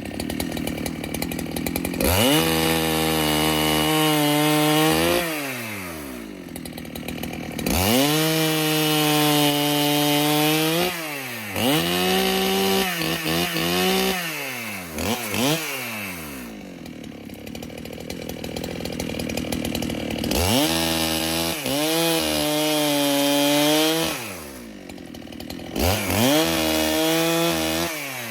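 Neotec NH895 two-stroke chainsaw with a full chisel chain cutting white oak. The engine revs up to full throttle three times, holding high with a slight sag in pitch through each cut, then drops back to idle, with short throttle blips in between.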